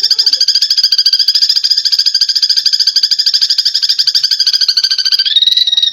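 Eurasian tree sparrows chattering in a rapid, unbroken stream of chirps: the excited calls of sparrows fighting. The pitch lifts slightly about five seconds in.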